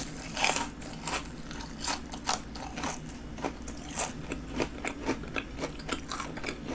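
Bite into a breadcrumb-coated deep-fried king prawn, with a louder crunch about half a second in. Crisp crunches follow as it is chewed, a few each second.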